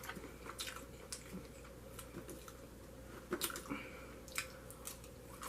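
A person chewing food close to the microphone: scattered soft, wet mouth clicks and smacks, a few louder ones past the middle.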